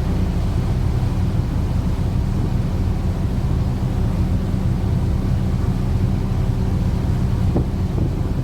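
Steady low drone of the KM Dharma Rucitra 9's engines, a hum of even low tones under a rushing noise, with wind on the microphone.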